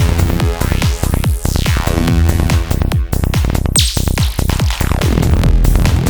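Psytrance music: a fast pulsing kick and bass drive under analog modular synth effects, with pitched sweeps gliding down and up. There is a bright high sweep about four seconds in.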